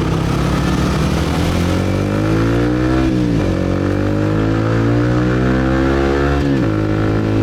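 Motorcycle engine accelerating: its pitch climbs, drops sharply about three seconds in at a gear change, climbs again, and drops once more near the end.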